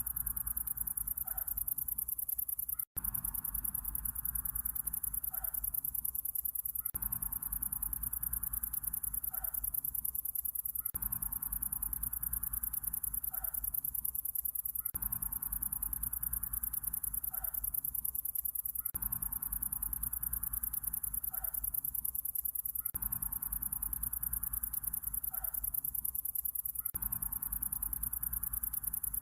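Looped summer-night nature ambience: a steady high-pitched insect chorus over a low rumble, with a softer mid-pitched sound that swells and breaks off about every four seconds. The sound cuts out for an instant about three seconds in.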